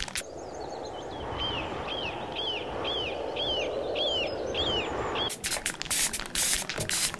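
A bird's call repeated about nine times, quick chirps of a dip and rise in pitch about two a second, over steady outdoor ambience. Near the end it gives way to a rapid string of short hissing bursts from an aerosol spray can.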